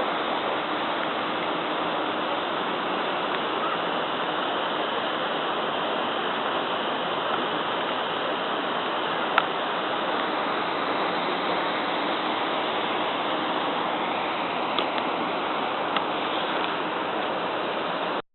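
Waterfall and river water rushing with a steady, even sound. A sharp click about halfway through and two fainter clicks near the end.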